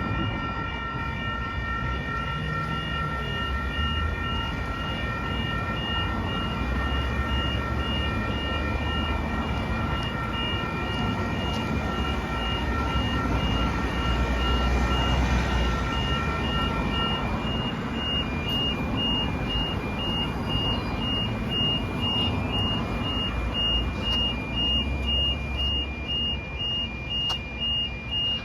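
Level crossing warning alarm sounding with several steady high tones while a passing train rumbles. About two-thirds of the way in, the alarm changes to a rapid pulsing beep.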